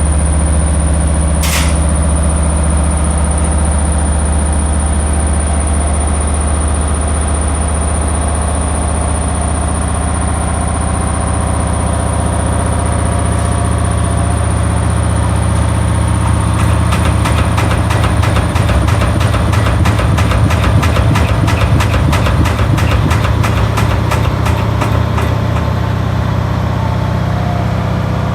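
Washing machine running with a steady motor hum and a thin high whine. A short sharp click comes about a second and a half in, and past the middle a fast rattling clatter runs for several seconds before easing off.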